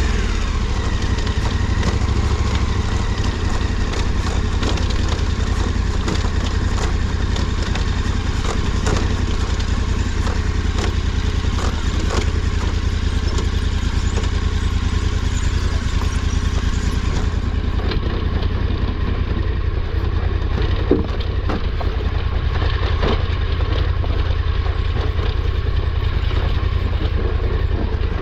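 KTM 1290 Super Adventure R's V-twin engine running steadily on a descent of a steep, rough trail, with frequent knocks and clatter from the rocky ground under the bike.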